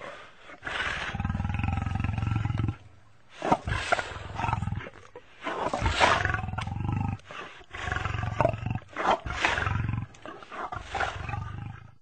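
Lion roaring: one long, deep call of about two seconds, then a run of shorter calls of about a second each.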